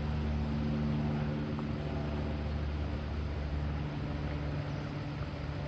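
Steady low engine-like hum over a rushing background, fading about four seconds in.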